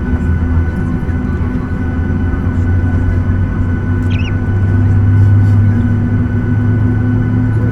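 Boeing 737-800's CFM56 jet engines running at low power, heard as a steady drone inside the passenger cabin, with a thin steady whine above it.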